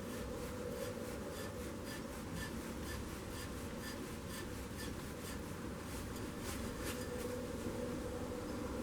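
A tap cutting threads for the generator mounting bolts in the Izh Jupiter 3 engine: a steady buzzing hum with light, regular ticks about two to three times a second.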